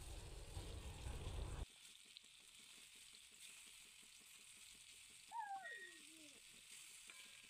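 Alu wadi, besan-coated colocasia leaf rolls, shallow-frying in hot oil in a kadhai: a faint, steady sizzle. Around the middle, a brief wavering tone falls in pitch in the background.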